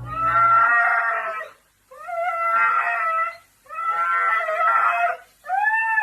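Dog howling in four drawn-out calls in a row, each about a second and a half long; the last rises and then falls in pitch.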